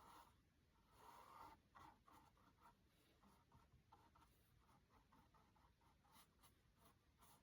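Faint scrubbing and quick repeated strokes of a paintbrush on canvas, blending acrylic paint, about four strokes a second.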